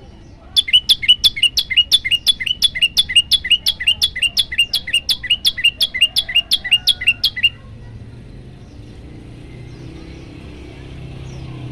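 Prenjak lumut singing a fast, loud series of sharp, downward-sliding chirps, about four a second, for about seven seconds, then stopping abruptly.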